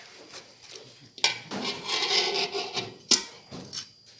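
Metal spoon and pot clattering and scraping as food is worked in a cooking pot, with a few sharp clinks, the loudest about a second before the end.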